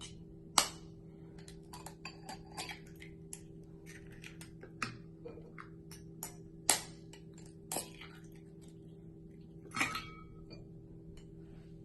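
Eggs being cracked against a bowl: a few sharp taps, with small clicks and clinks of shell and bowl between them.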